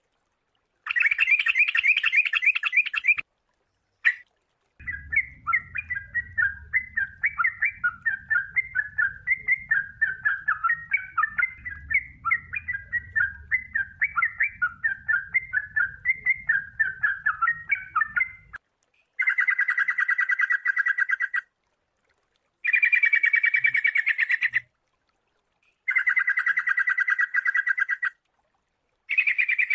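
Sooty-headed bulbul song, played in bursts of two to three seconds that start and stop abruptly. From about five seconds in until about eighteen, there is a long run of quick chattering notes, about four a second, with a faint low hum underneath.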